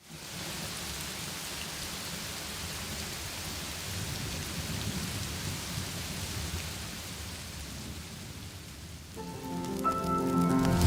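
Steady rain with a low rolling rumble of thunder. About nine seconds in, music with sustained notes fades in and grows louder.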